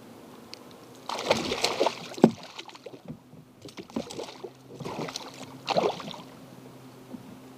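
Splashing and knocking at a canoe's side in three bursts, with one sharp knock about two seconds in, as a hooked northern pike thrashes while it is being landed.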